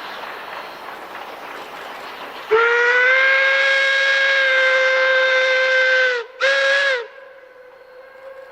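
Steam whistle of K-27 Mikado locomotive No. 463: one long blast, then a short one, over the steady noise of the train running.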